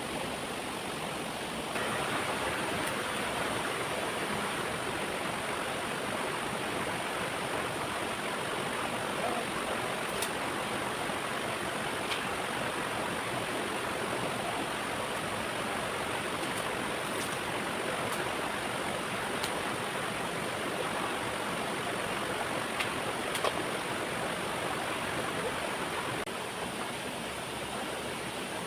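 Waterfall water rushing steadily, a little louder from about two seconds in until near the end.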